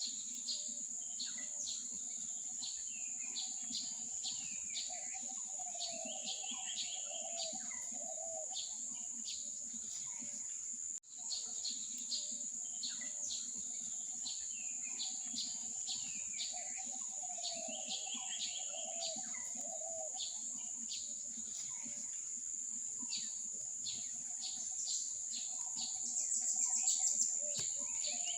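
Many birds chirping and calling over a steady high-pitched insect drone. The sound breaks off for a moment about eleven seconds in and then runs on with much the same pattern of calls.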